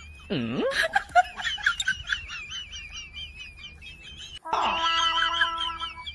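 Birds chirping over and over in quick, repeated calls. About half a second in there is a short falling swoop. After an abrupt break at about four and a half seconds, a steady horn-like tone with several overtones sounds for about a second and a half.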